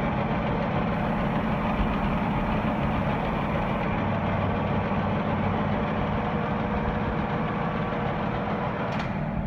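Colchester metal lathe running steadily, a mechanical hum with a constant gear whine, and a sharp click near the end.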